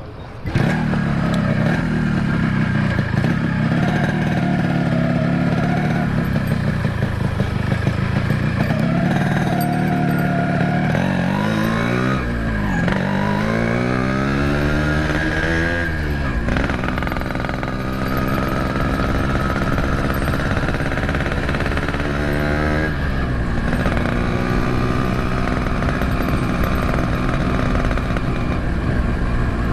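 Yamaha RX-King 135cc two-stroke motorcycle running under way through an RBK aftermarket exhaust. The engine note drops and climbs again about halfway through as the rider shifts and revs, with another shift in pitch later.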